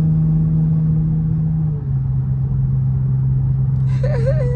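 Dodge Charger GT's V6 engine droning steadily inside the cabin at highway cruising speed, over a low road rumble. About two seconds in, the drone's pitch drops a step and holds lower.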